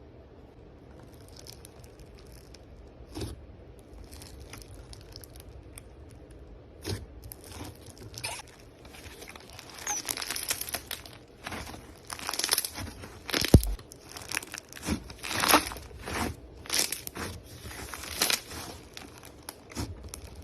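Slime being handled: fairly quiet at first, then irregular bursts of crackling and popping clicks from about seven seconds in, busiest in the second half.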